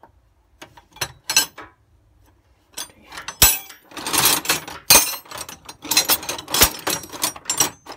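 Metal sockets and tools clinking and clattering as they are rummaged through while hunting for the right size, busiest over the second half, with a few sharper knocks.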